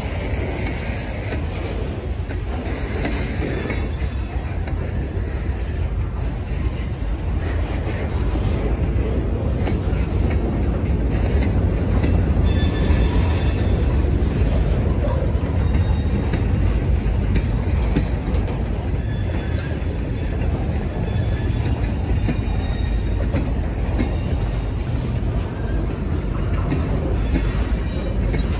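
Freight cars rolling past at close range: a steady low rumble of steel wheels on the rails, with a brief high wheel squeal about twelve seconds in.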